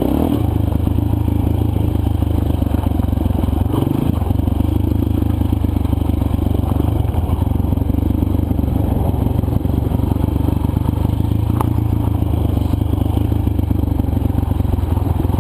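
Dirt bike engine running at a steady pitch, a rough, even drone with no change in speed.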